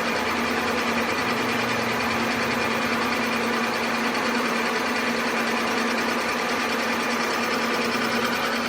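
A workshop machine running steadily with an even, dense mechanical noise and a constant hum, with no pauses or changes in speed.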